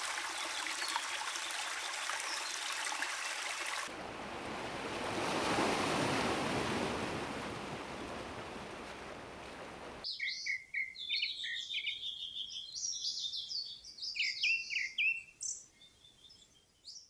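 Running water hissing steadily for about four seconds, cut abruptly to a rush of noise that swells and fades over about six seconds, then cut to small birds chirping and singing in short, separate phrases for the rest.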